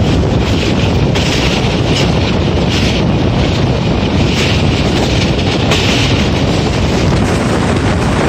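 Passenger train rolling along the track, heard from an open coach window: a steady rumble of the wheels on the rails, with wind buffeting the microphone.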